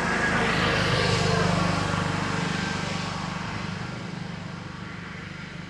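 A road vehicle passing close by, loudest about a second in and then fading away, over a steady low engine hum.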